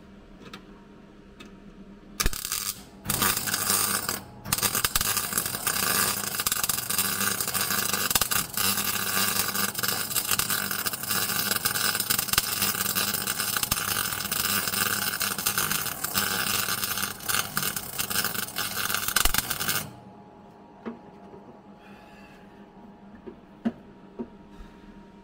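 Welding arc crackling on the car's steel floor: two short tacks, then a continuous seam weld of about fifteen seconds that stops suddenly.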